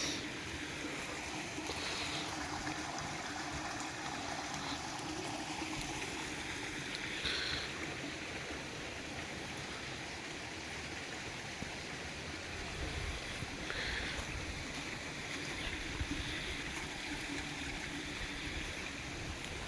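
Steady rushing noise of flowing water, like a stream, with a few brief high-pitched chirps over it.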